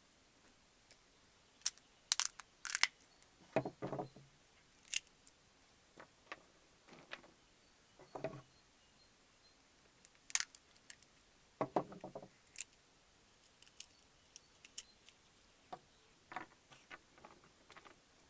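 Irregular small sharp clicks and taps from hands handling small objects, with a few short rustling scrapes.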